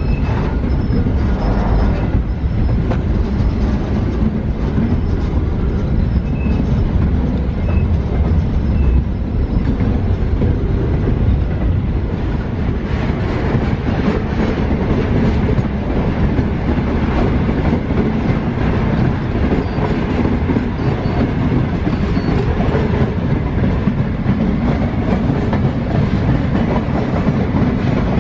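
Container freight train wagons rolling past: a loud steady rumble with the clickety-clack of steel wheels on the rails.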